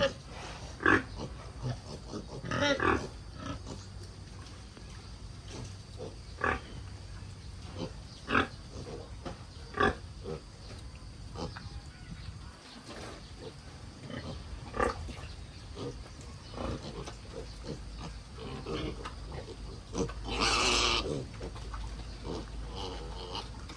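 Sow and piglets grunting in short, irregular bursts, with one longer, louder noisy burst near the end.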